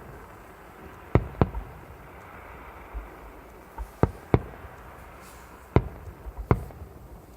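Fireworks display: aerial shells bursting with sharp bangs, six in all, mostly in pairs a fraction of a second apart.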